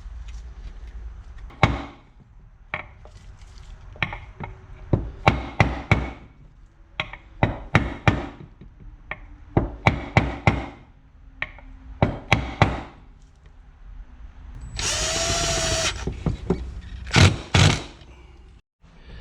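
Repeated sharp taps and knocks in quick clusters as a crankshaft oil seal is driven into the KFX400 engine's case cover. About fifteen seconds in there is a loud hiss lasting about a second, followed by two more loud knocks.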